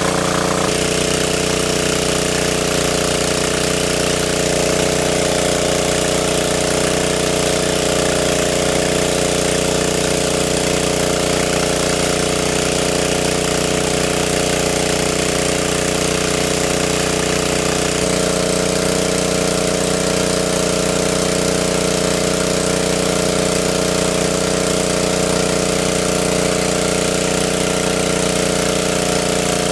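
A small engine running steadily at a constant speed, a continuous drone.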